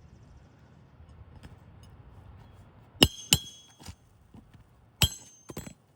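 Sharp metallic clinks from metal roofing tools being handled or struck, in two clusters about two seconds apart. Each cluster is one loud strike followed by a few lighter taps, with a brief ringing.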